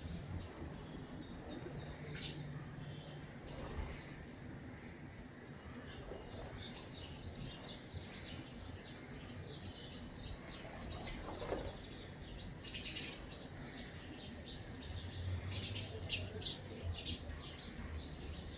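Small bird chirping, with many short high chirps coming in quick runs, busiest in the second half.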